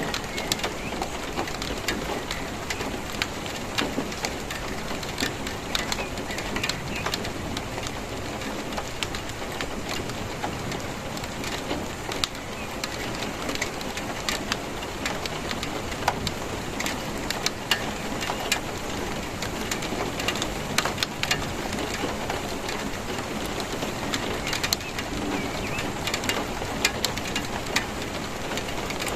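Steady rain falling, with many sharp individual drops and drips hitting a nearby surface throughout.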